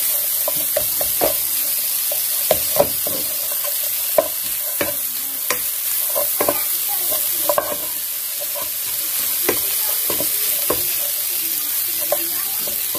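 Peas, onion and egg frying in oil in a pan with a steady sizzle, while a spatula stirs and scrapes through them, knocking against the pan at irregular moments.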